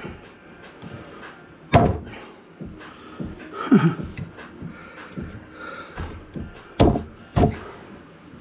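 Sharp knocks of wood: one about two seconds in and two close together near the end, with quieter handling clatter between them.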